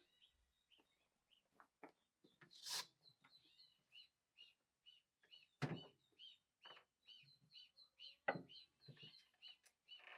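Faint small bird chirping over and over, short high notes a few times a second. A few soft knocks and one brief hiss come in between.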